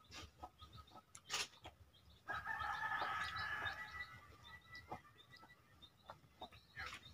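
A bird calls once for about two seconds, starting about two seconds in, most likely a chicken. Soft clicks from a hand eating out of a bowl of soaked rice are heard before and after the call.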